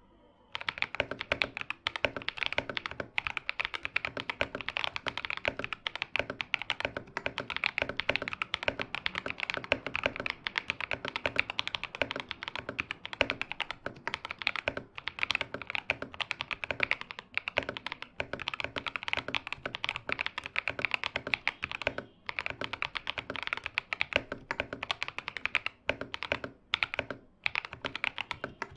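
KM84+ mechanical keyboard being typed on quickly and continuously, a dense stream of keystrokes that starts about half a second in, with a couple of brief pauses near the end.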